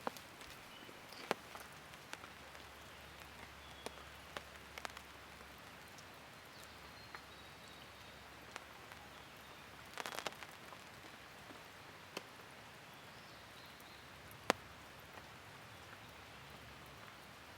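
Open wood campfire crackling: a low steady hiss with sharp pops at uneven intervals, and a short burst of crackling about ten seconds in.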